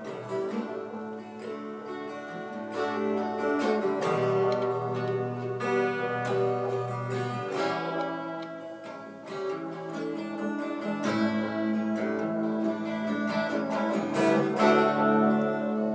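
Acoustic guitar strummed in a steady rhythm through chord changes, an instrumental passage with no singing.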